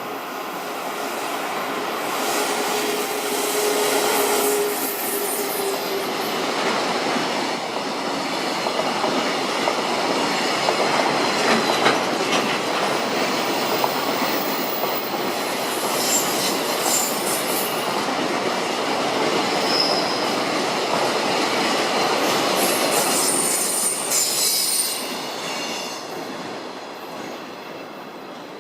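EF65 electric locomotive hauling a container freight train of Koki 50000 flatcars, passing at speed: a long steady rumble of wheels on rail with clickety-clack, and short high wheel squeals now and then. It builds over the first few seconds and fades near the end.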